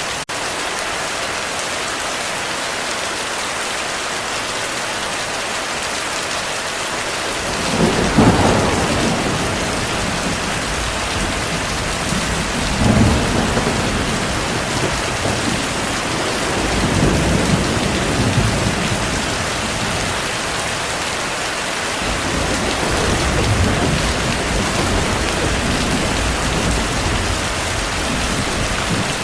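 Steady heavy rain with rolling thunder. The thunder starts about eight seconds in and rumbles on in several low swells.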